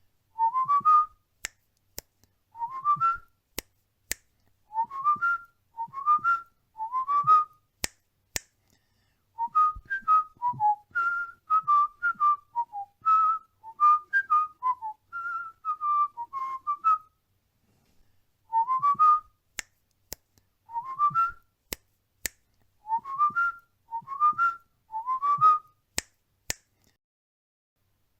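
Cockatiel whistling a learned tune: short rising phrases repeated in quick groups, then a longer run of notes that wanders up and down in the middle, then the rising phrases again. Sharp single clicks fall between some of the phrases.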